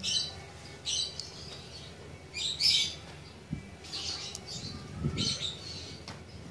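Short bird chirps, five in a row about a second apart, over light clicks and handling of a small plastic push-button switch.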